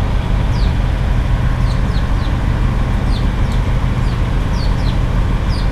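Steady low rumble of vehicle engines and traffic at a truck stop, with small birds giving short, high, falling chirps every half-second or so over it.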